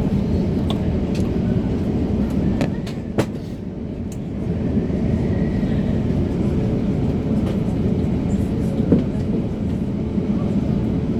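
Steady low rumble of an Airbus A350-900 taxiing ahead of takeoff, with scattered sharp clicks and a knock about nine seconds in.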